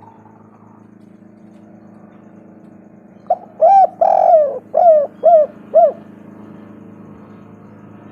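Spotted dove (tekukur) cooing: one phrase of about six coos a little over three seconds in, each note rising then falling, the fourth held longest.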